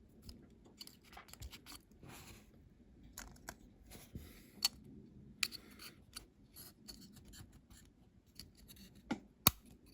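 Light clicks, scratches and rubbing of small die-cast toy van parts being handled and pushed into place during a dry-run fit, with a few sharper clicks about halfway through and near the end.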